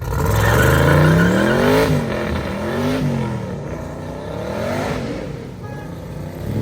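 Muscle car accelerating hard: the engine note climbs, drops with a quick upshift about two seconds in and again a second later, then climbs once more and falls away near the end.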